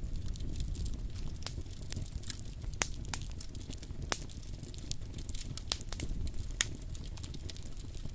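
Campfire burning, with irregular sharp crackles and pops over a low steady rumble, two pops louder than the rest.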